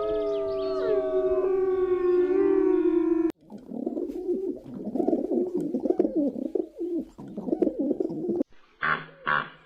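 Animal calls: a held, pitched call with sliding tones for about three seconds, then, after a sudden cut, several seconds of low, warbling pigeon cooing.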